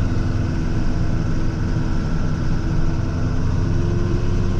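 Salt truck's engine and road noise heard from inside the cab while driving, a steady drone with a few steady tones running through it.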